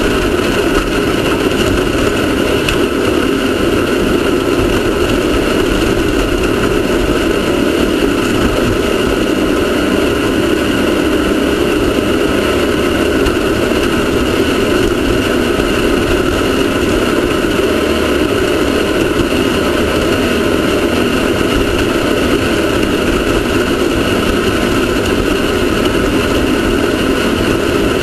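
Off-road race car's engine running steadily, a loud unbroken drone that holds an even pitch throughout.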